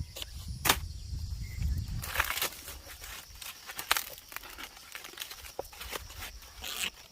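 Rustling and crackling with scattered sharp snaps and clicks, over a low rumble in the first two seconds.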